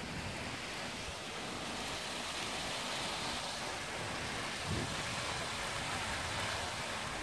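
Heavy downpour during a thunderstorm: steady, even hiss of rain falling.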